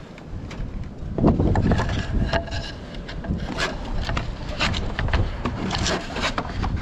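Gusty wind buffeting the microphone, with irregular knocks, taps and rubbing from roofing material and tools being handled.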